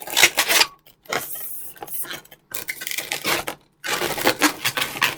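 Latex twisting balloons being handled and worked together, rubbing against each other and the hands in four rustling bursts with short silent gaps between them.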